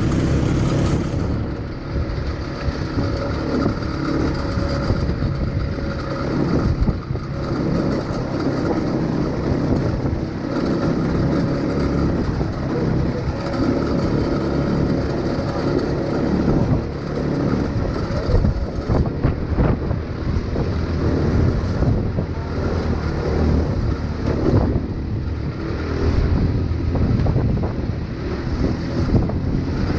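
ATV engine running steadily under way, with many short knocks and rattles through the ride.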